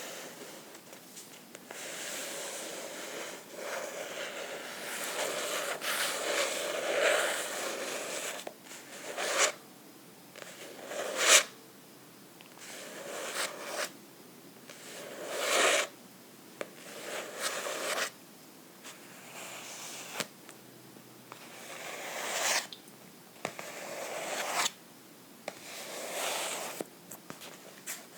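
Scratching and rubbing on a book, a string of separate short swishing strokes of varying length, with one sharper, louder stroke about eleven seconds in.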